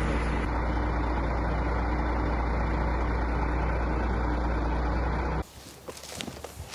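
Diesel truck engine idling steadily with a deep hum, cut off abruptly about five seconds in; a few faint crunching steps follow.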